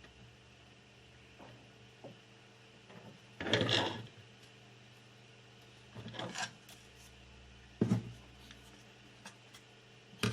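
Short scraping rubs, twice, then a couple of sharp clicks: hand-tool and soldering-iron handling on a monitor's power board while a swollen capacitor is being desoldered. A faint steady hum runs underneath.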